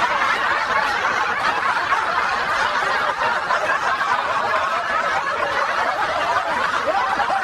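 Audience laughter: many people chuckling and laughing together at a steady level.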